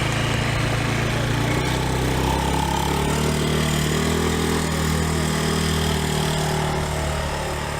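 Motorbike engine running while being ridden, its pitch rising about two to three seconds in as it picks up speed, with a steady rush of noise over the top.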